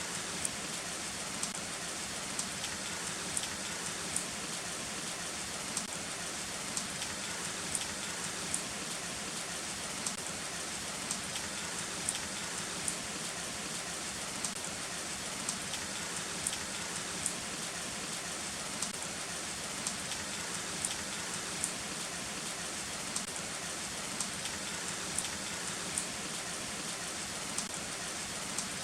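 Heavy rain falling steadily, with sharp individual drop hits clicking out above the even hiss, about one or two a second.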